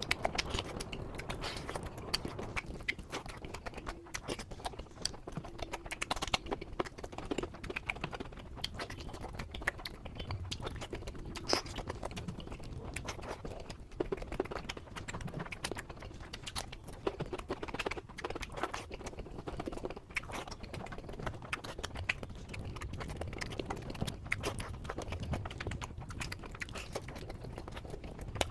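Close-miked eating: chewing and biting with many short wet clicks and mouth sounds, going on without a break.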